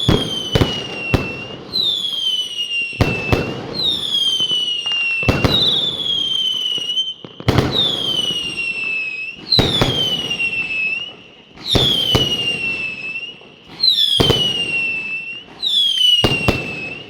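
Fireworks going off in a steady series, a sharp bang about every two seconds, each followed by a whistle that falls in pitch. A few quick cracks come near the start.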